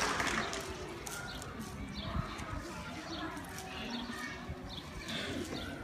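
Applause dying away in the first half second, then a quiet lull with faint short bird chirps repeating every half second or so.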